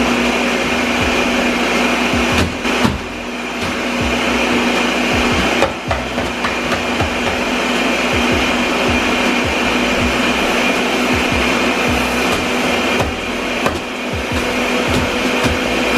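Ninja blender running steadily at high speed, blending ice into a thick protein ice-cream mix, with frequent dull low knocks underneath.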